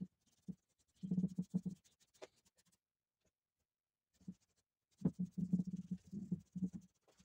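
Rapid back-and-forth rubbing strokes of a hand tool on the wood of a bentwood chair. They come in short bursts of several strokes, with a pause of about two seconds midway.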